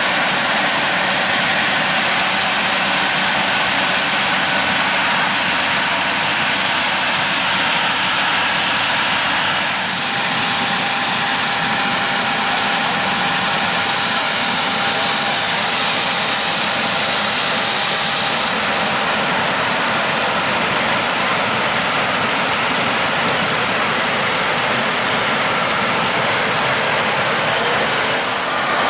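Combine harvesters running in a cornfield: a loud, steady engine-and-machinery drone with a few steady tones through it. The sound changes abruptly about ten seconds in, with a brighter hiss on top.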